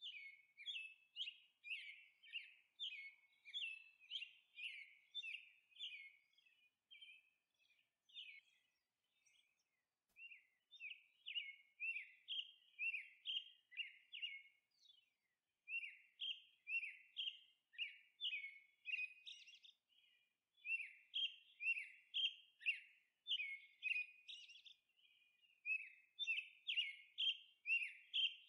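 Songbird chirping: short, clear sweeping chirps repeated about two a second, in runs broken by brief pauses.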